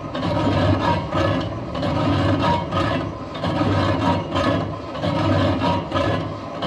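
Lathe turning a steel truck wheel rim: steady machining noise with a scraping cut that swells and dips a little more than once a second, in time with the rim's rotation.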